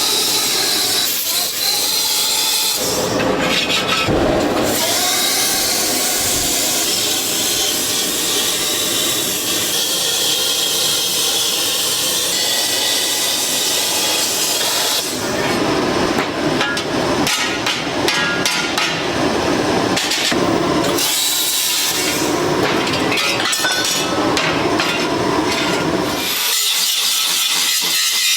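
Metalworking shop noise: a run of different tool sounds, with a long steady hiss of grinding or cutting and, in other stretches, rapid knocking and clinking of metal work.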